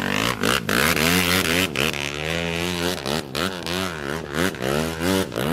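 Motorcycle engine revving up and down over and over, its pitch rising and falling about twice a second.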